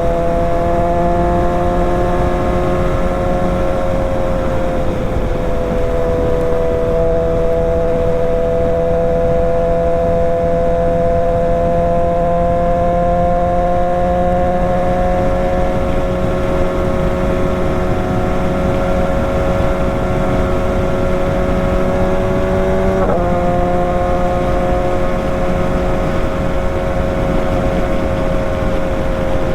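BMW S1000 XR's inline-four engine through a full Akrapovic exhaust, running at steady revs with its pitch slowly creeping up, and one sudden brief dip about three quarters of the way through. A constant rush of noise runs underneath.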